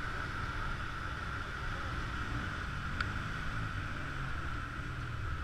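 Motor scooter running steadily, with wind on the microphone, and a single sharp click about three seconds in.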